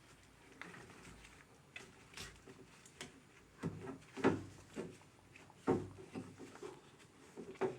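Irregular knocks and clicks of hard objects being handled, with two louder knocks a little over four and nearly six seconds in.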